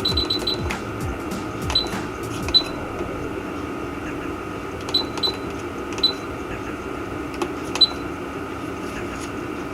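A steady hum with a handful of sharp, ringing metallic clicks, spaced irregularly through the first eight seconds.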